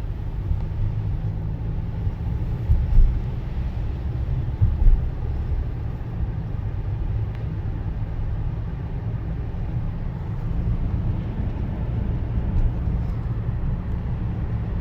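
Steady low rumble of a car driving, heard from inside the cabin: tyre and engine noise on a wet road, with two heavier thumps about three and five seconds in.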